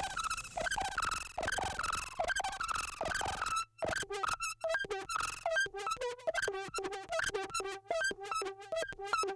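Moog Labyrinth synthesizer sequence of short, bright pitched notes, chopped into a stuttering pattern by a beat-repeat effect, with a brief dropout near four seconds in.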